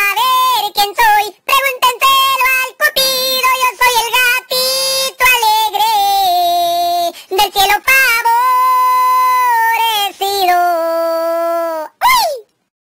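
A high-pitched, cartoonish voice singing a song with long held, wavering notes, typical of the Talking Tom cat app playing back singing in its raised-pitch voice. It cuts off suddenly near the end.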